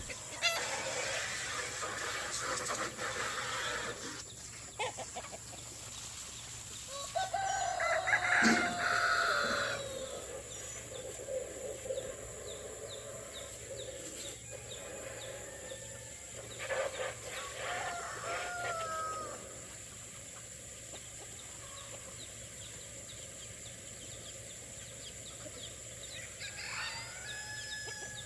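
Roosters crowing among a flock of chickens: a loud crow about eight seconds in and another around seventeen seconds, with scattered clucking between.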